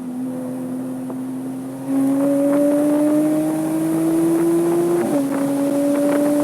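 Porsche 987.2 Cayman S flat-six engine under acceleration: the throttle opens about two seconds in and the engine note climbs steadily, then it shifts up a gear about five seconds in, with a quick drop in pitch before it climbs again.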